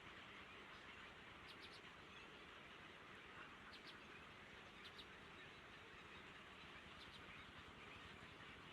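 Near silence: a faint steady hiss, with a handful of short, faint high chirps from small birds scattered through it.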